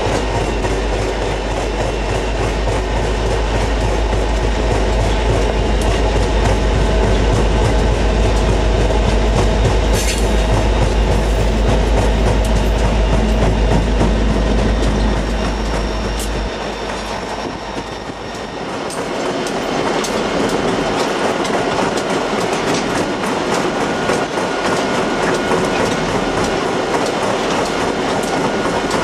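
Freight train rolling past, its car wheels clicking and clattering over the rail joints. A deep low rumble under it drops away about seventeen seconds in, and the clatter carries on.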